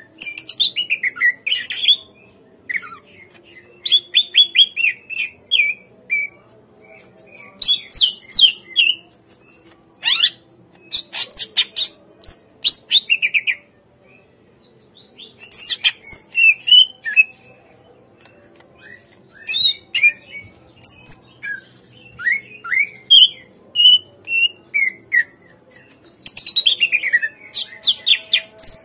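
Cucak ijo (green leafbird) singing in bursts of rapid, sweeping whistled notes and chatters, with short pauses between phrases and a longer pause about halfway through. This is its full, energetic 'gacor' song, used as a lure to get other leafbirds to answer.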